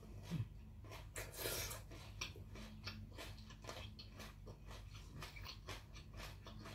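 Close-up chewing of a mouthful of blanched squid with the mouth closed: soft, wet clicks about three times a second. There is a brief hiss about a second and a half in.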